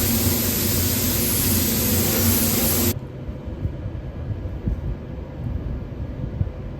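Spray gun hissing as paint is sprayed, stopping abruptly about three seconds in, leaving a quieter low rumble.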